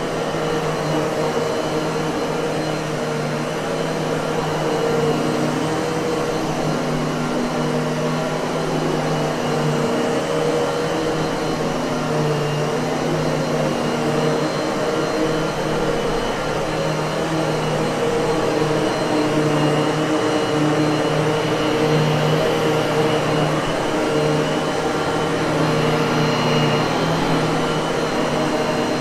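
Miele vacuum cleaner's motor running steadily, a continuous whirring hum over airflow hiss.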